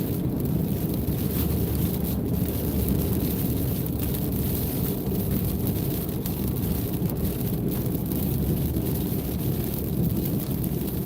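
Steady low rumble of tyre and engine noise inside a car driving on the freeway.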